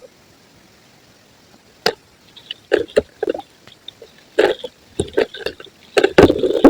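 Soft white concrete crumbling and crunching: one sharp crack about two seconds in, then a run of irregular crunches, loudest near the end.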